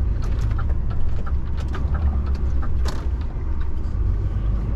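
DAF XF 480 truck's diesel engine rumbling steadily as heard inside the cab on the move, with a run of light sharp ticks and rattles on top, about three a second.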